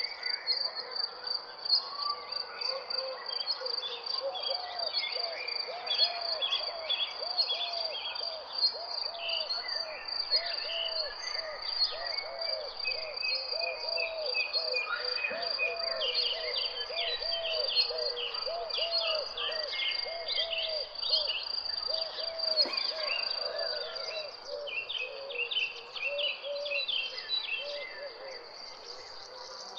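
Nature ambience: crickets trilling steadily at a high pitch, birds chirping over them, and a lower call repeated about twice a second through most of the stretch.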